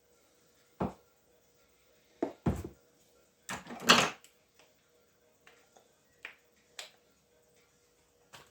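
Knocks and handling noises from shoe-repair work: a sharp tap about a second in, a few knocks around two and a half seconds, a longer, louder scraping about four seconds in, then lighter clicks.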